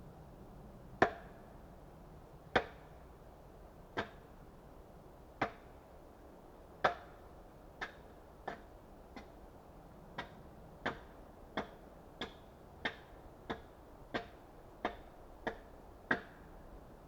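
Axe chopping wood: five heavy blows about a second and a half apart, then a run of quicker, lighter strokes about one and a half a second.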